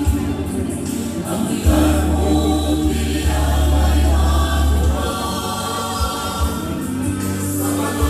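Music: a choir singing held chords over a strong, sustained bass.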